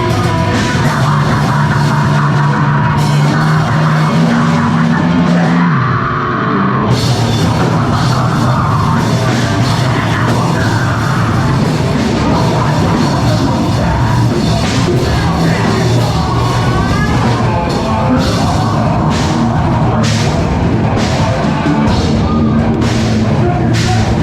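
Live heavy rock band playing loud: distorted guitar, bass and drums, with dense cymbals.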